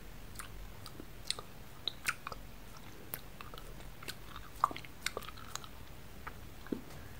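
Someone chewing a hard ramune-style compressed candy tablet (a stamp candy), with scattered irregular crunches and clicks, the loudest about four and a half seconds in.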